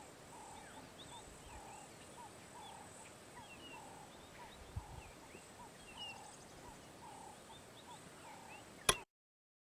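Birds calling in the bush: a repeated short call about two to three times a second, with scattered higher chirps from other birds. It cuts off abruptly with a click near the end.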